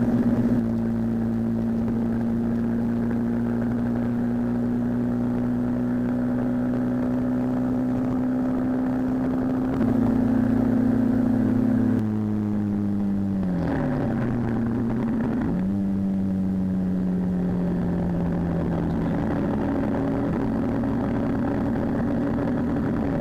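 Motorcycle engine running steadily at road speed. Its note drops and climbs back again about halfway through, and once more near the end, as the bike slows and speeds up.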